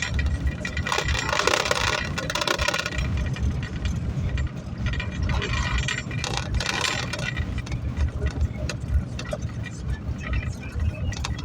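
A pickup truck on the move, heard from inside the cab: a steady low engine and road rumble with scattered rattles and clicks.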